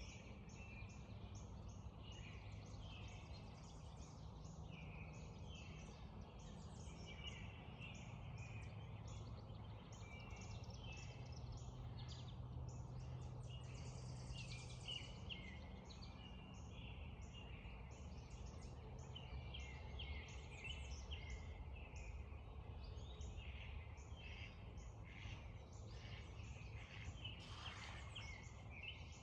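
Spring dawn chorus: many songbirds singing and chirping over one another without pause, over a steady low rush of creek water.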